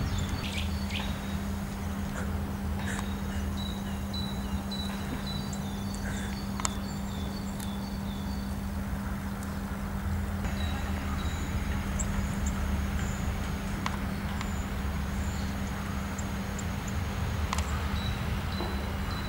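Small birds singing and calling: repeated high thin notes and short falling chirps, over a steady low hum and rumble, with a few sharp clicks.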